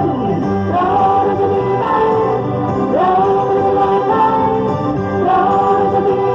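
Slow pop ballad sung by a female idol group over a backing track, each sung phrase sliding up into a held note about once a second.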